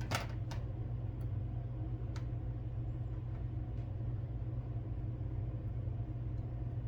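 Steady low electrical hum with a few faint light clicks and taps from small parts and wire being handled at the workbench.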